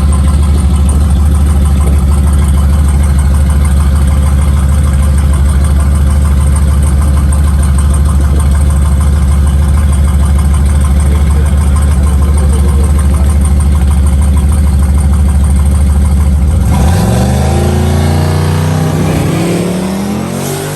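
Turbocharged full-size pickup truck engine held at high revs on the two-step at the start line: a loud, steady drone. About 17 seconds in it launches, the pitch climbing as the truck pulls away and the sound begins to fade.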